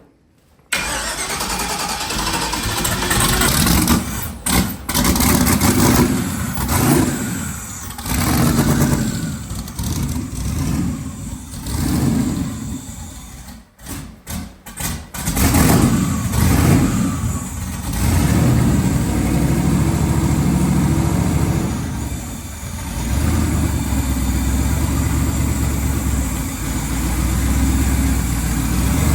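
The twin-turbo engine of a 1981 Chevrolet Malibu running. Its sound comes in abruptly under a second in, swells and drops repeatedly for about the first half, then settles into a steadier low idle.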